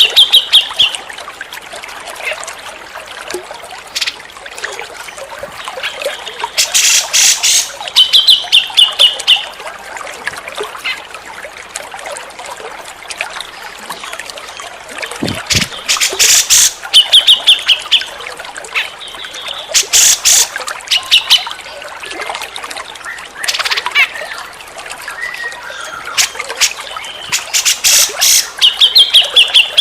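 Grey-cheeked bulbul (cucak jenggot) singing in repeated phrases several seconds apart: each is a burst of rapid loud notes followed by a quick chattering trill. Steady trickling water runs underneath.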